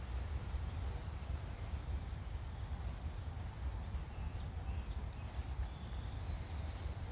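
Outdoor ambience: a steady low rumble on the microphone, with a small bird chirping faintly and repeatedly, about two chirps a second.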